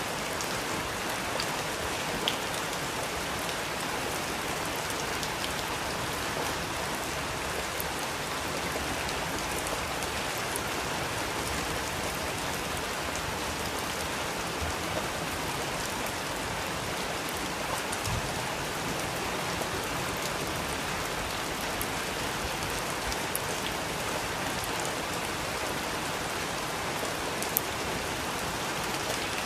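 Steady rain falling on a surface, an even hiss with occasional sharper individual drops.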